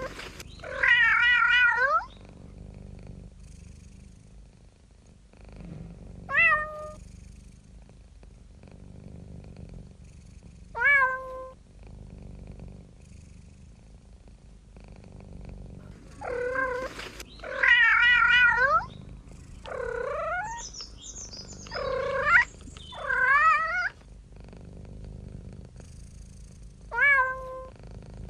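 Domestic cat meowing repeatedly: about ten calls, some long and wavering, others short, over a low steady purr.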